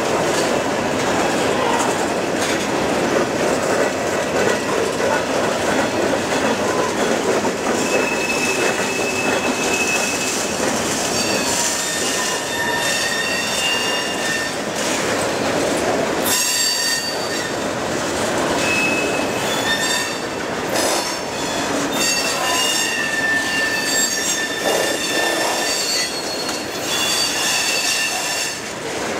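Freight cars of a mixed freight train (covered hoppers and a tank car) rolling past close by: a steady rumble of steel wheels on the rails, with the wheels squealing in thin, high tones on and off from about eight seconds in.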